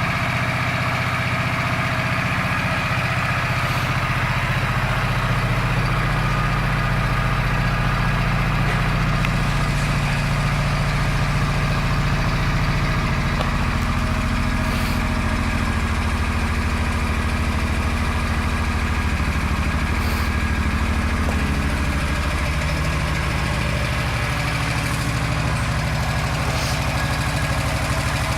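2005 Suzuki C50 Boulevard's V-twin engine idling steadily, with a deep exhaust note that the seller puts down to the muffler baffles likely having been removed.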